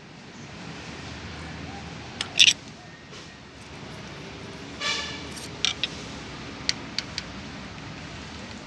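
Metal hand tools clicking and clinking against a diesel engine's valve gear while the exhaust valve clearance is set. There is a loud double clink a couple of seconds in, a short ringing clink near the middle, and scattered single clicks after it.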